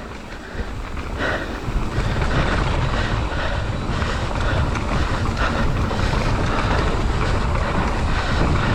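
Wind rushing over the bike-mounted camera's microphone with the low rumble of mountain bike tyres rolling fast down a dirt trail. It grows louder as speed builds.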